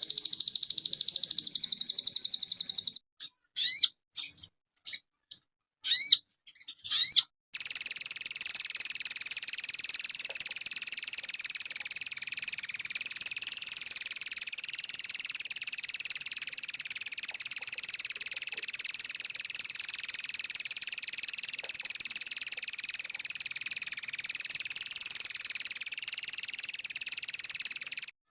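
Recorded song of a sogon (sogok ontong) songbird. It opens with a fast high trill, gives a few short sweeping whistled notes, and from about a quarter of the way in runs into a long, unbroken, steady high buzzing chatter that stops right at the end.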